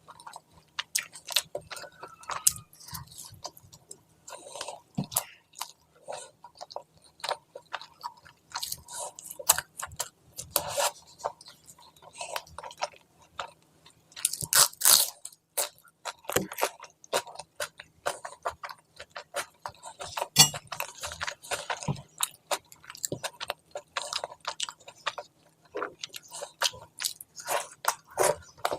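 Close-miked eating sounds of a person chewing a curry meal with bread: irregular wet smacks and clicks of chewing, with crunchy bites. The loudest bursts come about halfway through and again a few seconds later.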